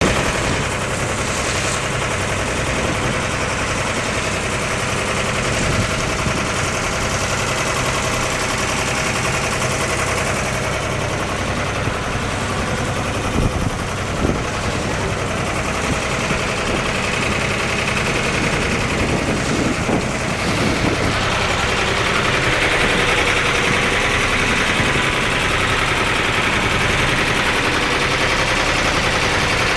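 A boat's engine running steadily throughout, with two brief louder knocks about 13 to 14 seconds in.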